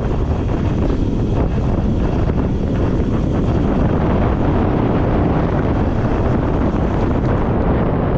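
Steady wind noise buffeting a GoPro action camera's microphone during a bicycle ride, a loud, even rumble.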